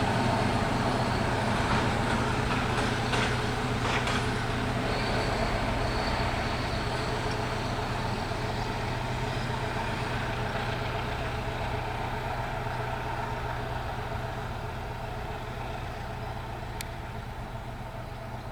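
SU42 diesel locomotive hauling passenger coaches away from the halt. Its steady engine note slowly fades as the train recedes, with a few clicks a few seconds in.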